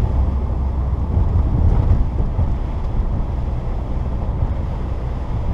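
Steady low rumble of a 1994 Saturn SL2 on the move, heard from inside the cabin: its 1.9-litre twin-cam four-cylinder engine running along with tyre and road noise on a snowy road.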